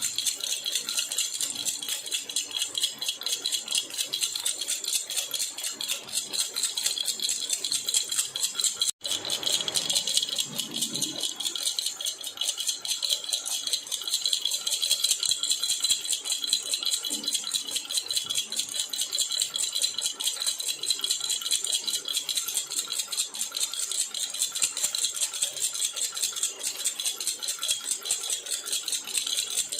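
Jhunjhuna baby rattle shaken continuously, a steady fast bright jingling and rattling. The sound briefly cuts out about nine seconds in, then carries on.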